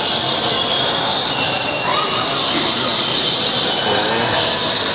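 Many caged songbirds singing at once in a dense, unbroken high chirping chorus.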